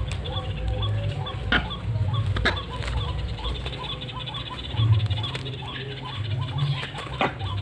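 Truwok (ruddy-breasted crake) calling: a quick series of short, rising chirps, several a second, with a few sharp clicks over a low rumble.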